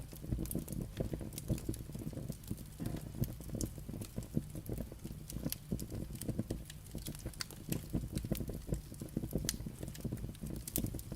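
Firewood burning, crackling and popping in many small, irregular snaps over a low, steady rumble of the fire.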